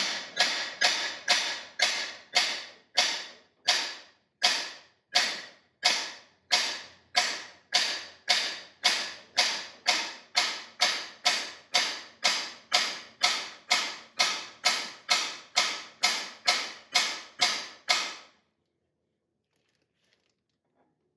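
Hammer tapping steadily on the Lisle 18000 cam bearing driver, about two ringing metal strikes a second, driving a cam bearing into its bore in a small block Ford block. The tapping stops a few seconds before the end.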